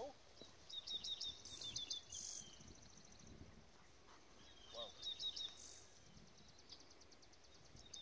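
A songbird singing faintly in two short runs of quick, high chirps, one about a second in and another around the five-second mark, over quiet open-field ambience.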